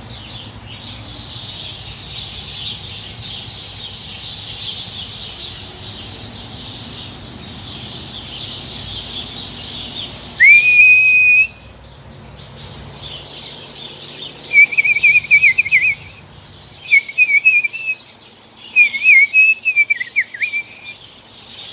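Birds singing in trees: a steady chorus of chirping throughout, then a loud whistled note about ten seconds in that rises and is held for about a second, followed by three bursts of rapid warbling trills from one bird close by.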